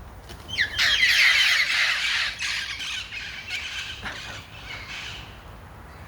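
A flock of wild parrots squawking, with a loud burst of overlapping calls about a second in that thins out to scattered squawks.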